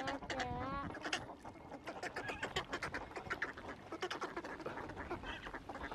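A flock of swans calling, many honking calls overlapping one another.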